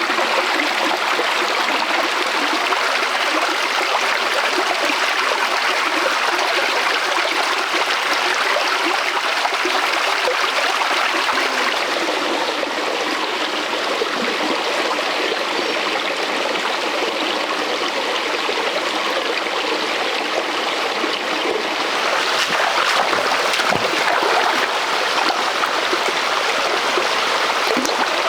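Stream water flowing steadily over rocks, with a few short knocks about three-quarters of the way through.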